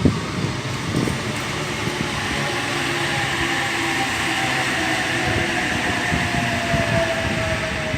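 An eight-car H-set OSCAR electric multiple unit running past, a steady rush and rumble of wheels on rail with a thin motor whine that slowly falls in pitch.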